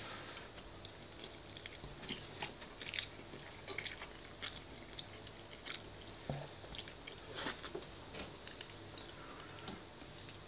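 Chewing a mouthful of spaghetti bolognese: soft, wet mouth clicks and smacks coming irregularly.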